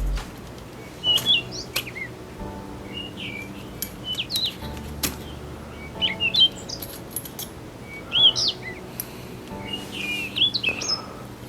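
Birds chirping: short, quick calls that rise and fall in pitch, repeated every second or so, with faint music underneath.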